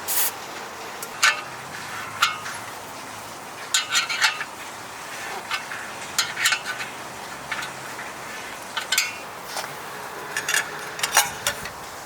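Irregular light clinks and knocks of hard, partly metallic objects being handled, about a dozen scattered through, over a low steady background.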